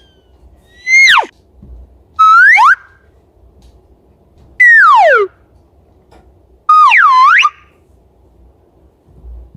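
Four short, loud whistle-like sound effects with cartoon-style pitch slides: a quick upward swoop, a short rising tone, a long downward slide, then a tone that dips and rises again.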